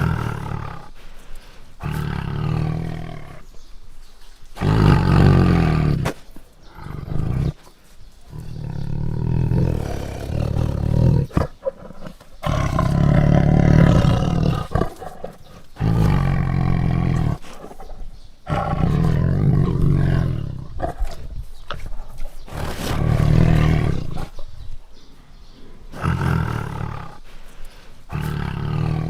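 Tiger roaring repeatedly: about a dozen deep calls, each one to three seconds long, with short pauses between them.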